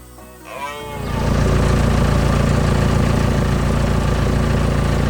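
A heavy vehicle's engine starts running about a second in and keeps a steady low drone, loud and even. It is just after a brief warbling voice-like sound.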